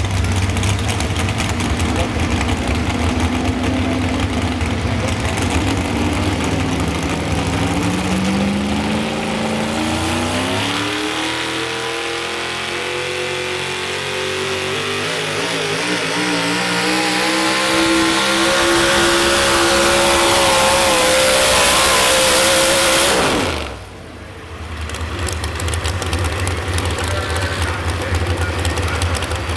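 Modified 4x4 pulling truck's engine under load on a pull. After a steady low rumble, the revs climb steadily for about fifteen seconds and hold high. Near the end the engine cuts off abruptly, then a lower steady rumble returns.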